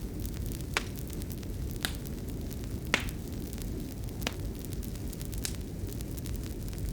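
Fireplace fire burning and crackling: a steady low rumble with scattered faint crackles and a few louder sharp pops.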